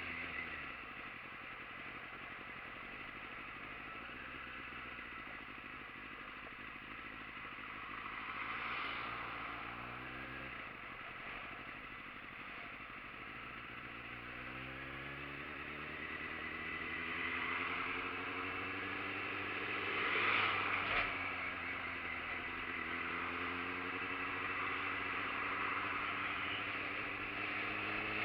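Motorcycle engine heard while riding, its revs rising and falling, with steady wind and road noise. The revs climb about eight seconds in, again from about fourteen seconds, and are loudest about twenty seconds in.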